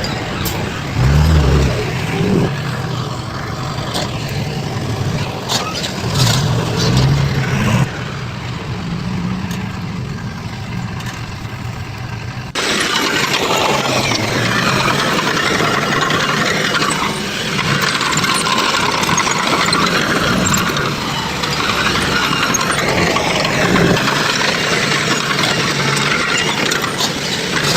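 Diesel engines of heavy construction machinery running. About twelve seconds in, the sound changes abruptly to a louder, noisier machine sound.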